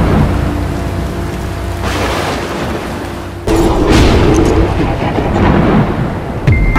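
Thunderstorm sound effect: steady heavy rain with rolling thunder, a loud thunder crack coming in suddenly about three and a half seconds in.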